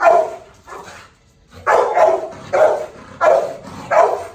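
A dog barking repeatedly, about six loud barks: two at the start, then a pause of about a second, then four more in quick succession.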